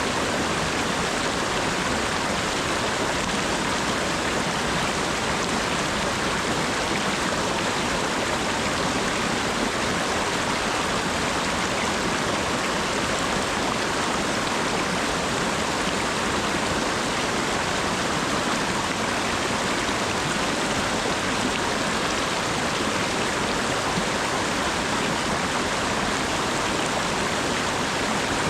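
Steady rainfall: an even hiss of falling water that holds the same level throughout, with no single drops standing out.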